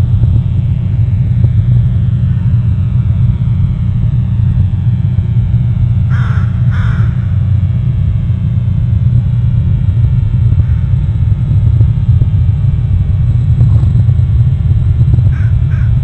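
A bird gives two short, harsh calls about six seconds in and calls several more times near the end, over a steady low rumble.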